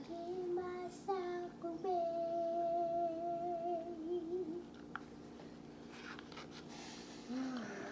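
A woman humming with her mouth closed while eating: a few short notes, then one long held note that stops a little after four seconds in.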